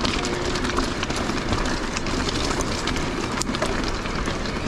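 Mountain bike rolling over a rough, rocky trail: tyres crunching over stones and the bike rattling, with many small clicks over a steady rush of noise.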